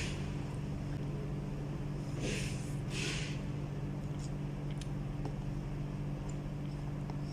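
Close-up eating sounds: two short, breathy slurps or sniffs about two and three seconds in, from someone eating very spicy noodles, over a steady low hum.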